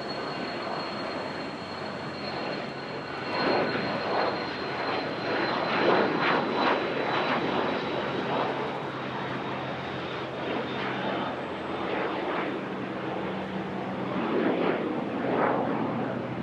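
Jet aircraft engines running at high power: a dense roar that swells and crackles in gusts, over a steady high whine that sinks slightly in pitch.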